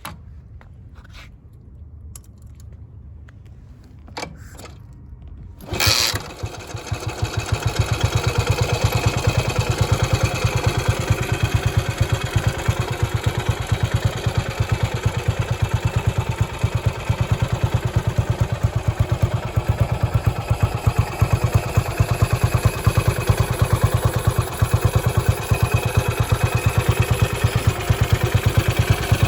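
Ducati 350 Desmo single-cylinder four-stroke engine starting about six seconds in with a sharp burst, then running with an even, rapid firing beat. Before it catches there are only a few faint knocks.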